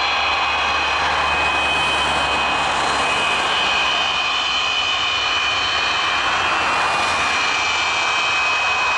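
Antonov An-124's four Progress D-18T turbofan engines running, a loud steady roar with a high, even whine over it.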